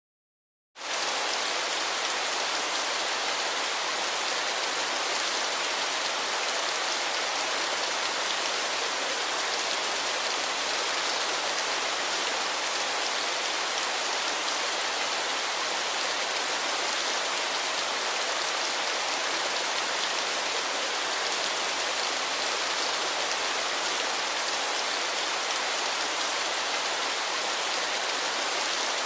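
A waterfall's steady rush of falling water, a dense even hiss that switches on abruptly just under a second in after a moment of silence.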